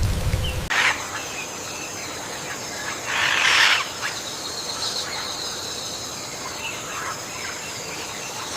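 Birds calling: harsh squawks, a short one about a second in and a louder, longer one about three seconds in, then scattered small calls, over a steady high insect buzz. Rain-like hiss in the first second before it cuts away.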